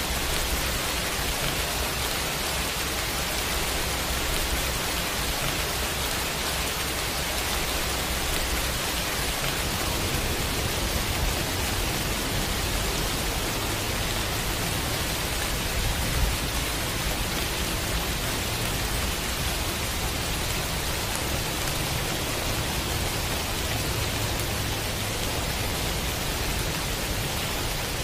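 Steady pouring rain, an even hiss, with a low rumble underneath.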